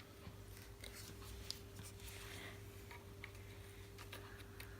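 Faint handling noises of a small plastic mini vacuum cleaner and its parts: scattered light clicks and soft rubbing, over a steady low hum.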